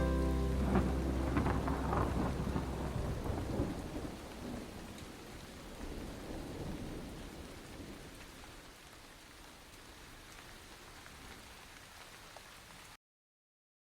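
Rain falling with a low rumble of thunder, fading slowly away and cutting off to silence near the end.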